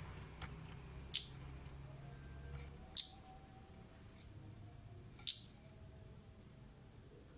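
Orange-headed thrush (kemade) giving short, sharp, high-pitched call notes: three loud ones about two seconds apart, with a few fainter ticks between.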